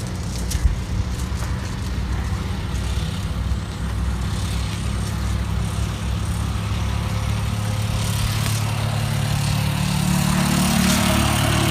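A motor vehicle engine running steadily, getting louder toward the end, with a couple of sharp clicks about half a second in.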